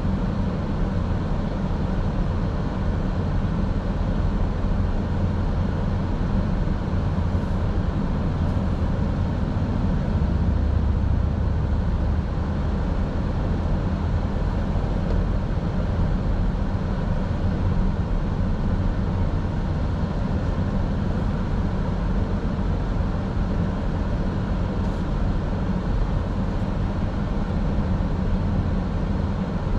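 Steady road and engine noise of a car driving, a constant low drone with no change in pace.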